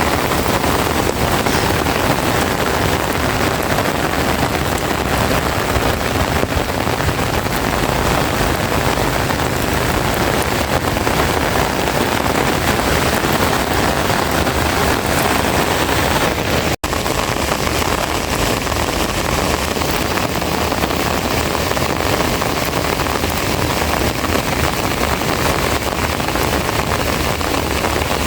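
Heavy rain pouring down in a dense, steady hiss, with a brief break in the sound about seventeen seconds in.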